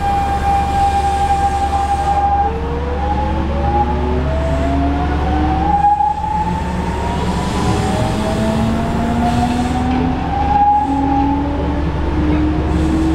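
Nankai 1000 series electric train heard from inside the car by a bogie, accelerating. Several whining tones from its inverter and traction motors climb in pitch in steps over a steady low running rumble. The uploader presents this car's sound as an abnormal noise (異音).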